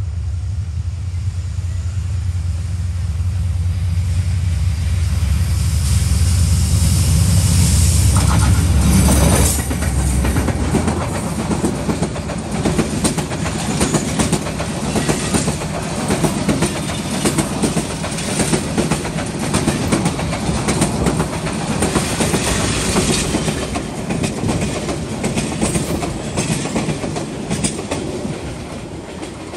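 Diesel locomotive of a meter-gauge passenger train approaching with a deep engine hum that grows louder, then passing about nine to ten seconds in. After it the passenger coaches roll by with a steady rhythmic clatter of wheels over the rail joints.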